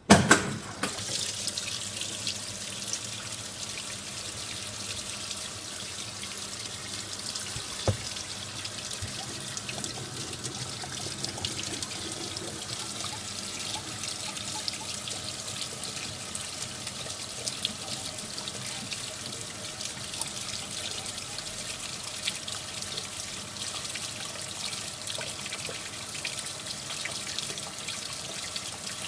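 Water rushing into a SANYO sneaker washing machine, starting abruptly and then running steadily, with a single knock about eight seconds in.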